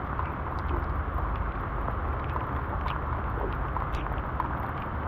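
Steady rumble and hiss of wind and water around a kayak on open water, with a few faint ticks scattered through it.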